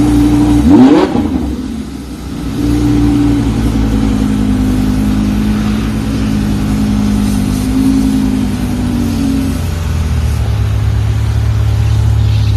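Car engine revving sharply once about a second in, then running steadily with its pitch shifting a little.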